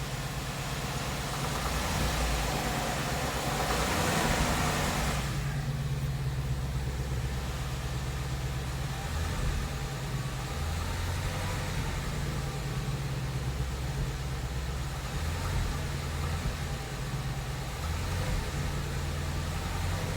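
2017 Ford Mustang GT's 5.0 L V8 engine running at low revs, with a louder, brighter stretch of a few seconds near the start that cuts off suddenly. The owner hears a knocking and ticking from the engine between 1000 and 1500 RPM, which the dealer called normal and he does not.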